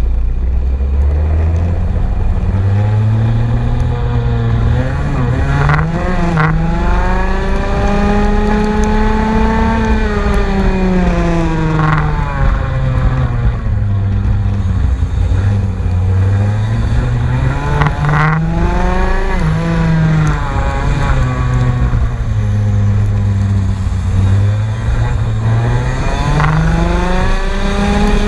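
Racing vehicle's engine running hard on track, its pitch rising and falling again and again as it accelerates and slows, with a few brief breaks in between.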